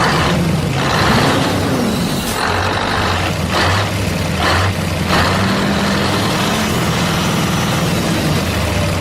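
Heavy vehicle diesel engine running, its revs rising and falling, with repeated short bursts of hissing noise over it.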